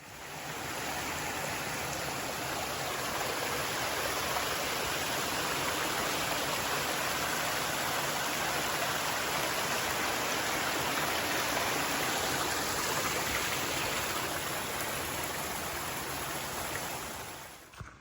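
Steady rush of running water, fading in over about the first second and out near the end.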